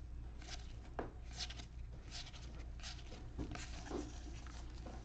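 Trading cards being handled and slid one over another: scattered soft clicks and rustles over a faint steady hum.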